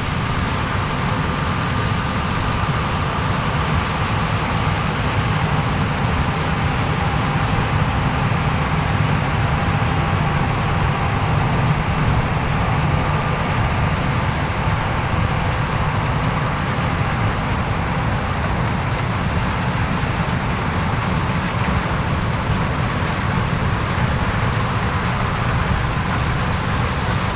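Combine harvester running steadily while harvesting corn, a constant heavy machine drone with a faint steady whine over it.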